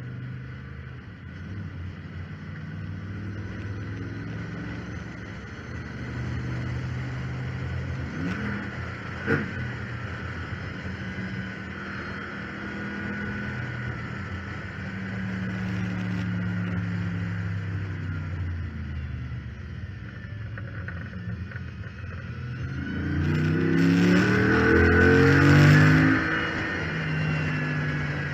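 2014 Chrysler 300 SRT8's V8 engine heard from the hood scoop at track speed, its pitch rising and falling through repeated acceleration and lifts, with a sharp knock a little after nine seconds and the loudest, rising pull about 23 seconds in. A high whine runs over the engine, which the owner puts down to the failed power steering pump, saying it makes the car sound like a Hellcat.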